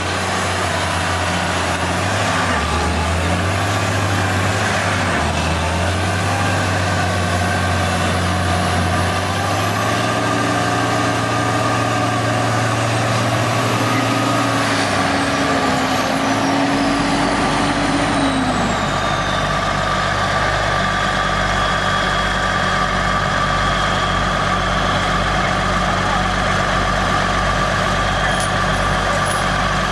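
Heavy vehicle engine running loud and steady. Its speed steps up a few times and climbs, then drops about halfway through to a lower, steady run, with a high whine falling away at the same moment.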